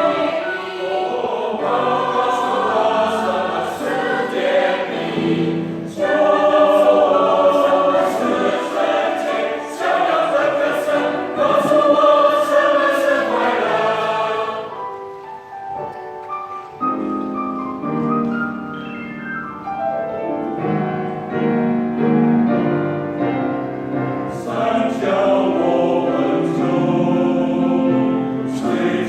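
A choir singing a sacred piece, full-voiced in the first half, dropping to a softer, thinner passage about halfway through, then swelling back to full voice near the end.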